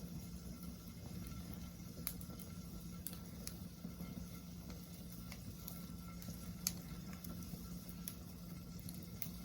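Wood fire burning, with scattered sharp crackles and pops over a steady low rustle of the flames; the loudest pop comes about two-thirds of the way in.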